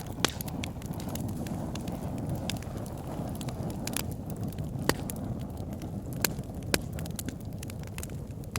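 Campfire burning with a steady low rumble of flames and frequent sharp crackles and pops of burning wood, a few of them louder.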